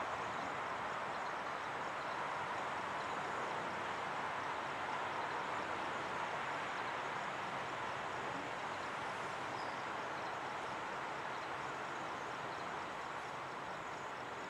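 Steady, even noise of a freight train moving slowly at a distance during a switching move, fading slightly near the end.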